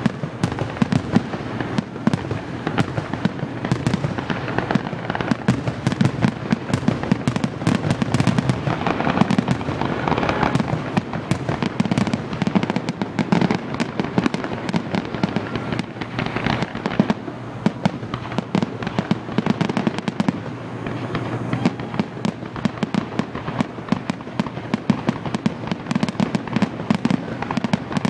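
Fireworks display: a continuous barrage of bangs and crackling, with many sharp pops a second and no break.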